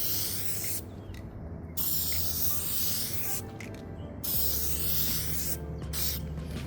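Clear coat being sprayed onto a sanded headlight lens in hissing passes: three long bursts of spray, each one to two seconds, then a short one near the end. Background music runs underneath.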